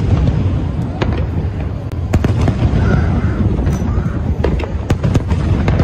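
Aerial fireworks shells bursting in quick succession: a continuous low rumble of booms with sharp bangs and crackles about every second.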